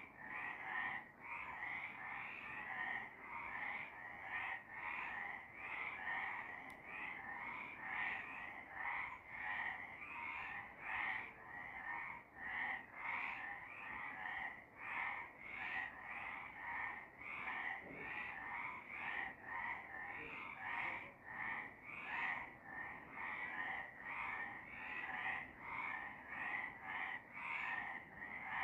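Several frogs croaking together in a steady chorus, the calls repeating about one and a half times a second and overlapping.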